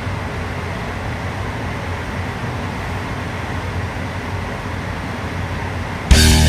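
A steady low mechanical hum with an even noise over it, unchanging; loud rock music starts suddenly near the end.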